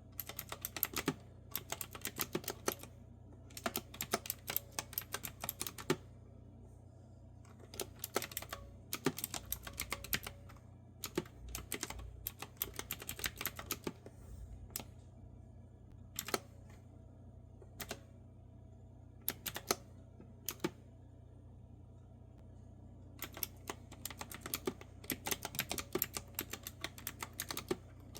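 Clicky retro-style keyboard with round keycaps being typed on in quick runs of keystrokes, broken by a few short pauses of a second or two. A steady low hum sits underneath.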